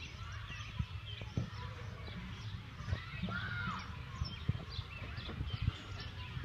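Birds chirping and calling, with one longer call that rises and falls a little past the middle. Underneath are a steady low rumble and a few soft thumps.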